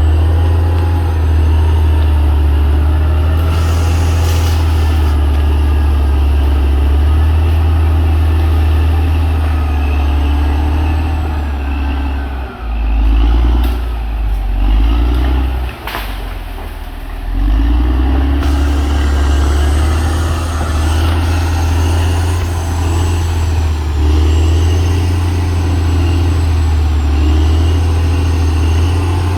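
CAT D6R XL bulldozer's diesel engine running steadily under work. In the middle its sound drops and wavers for a few seconds, then it picks back up to the same steady level.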